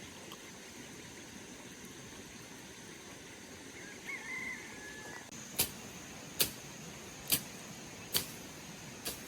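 Five sharp knocks at an even pace, a little under a second apart, beginning about halfway through, like a tool striking repeatedly. Shortly before them comes a brief chirping animal call.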